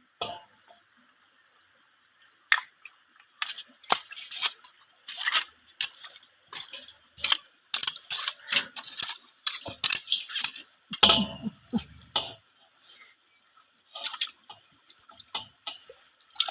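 Water splashing and dripping in quick, irregular bursts, with a heavier low splash or thump about eleven seconds in.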